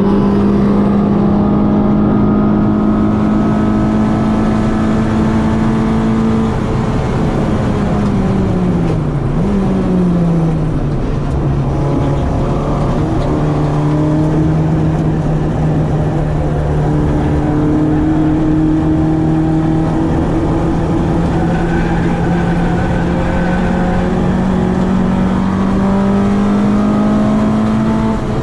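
Citroën AX's 8-valve four-cylinder engine on twin Weber 40 carburettors, running hard at high revs under load. The revs drop with a short blip about seven to ten seconds in, as in braking and a downshift, then climb slowly through a long pull and drop again at the end.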